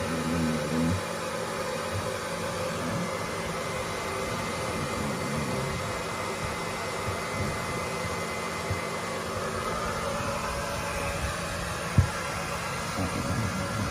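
Hair dryer blowing steadily, with a few soft bumps and one sharp knock near the end.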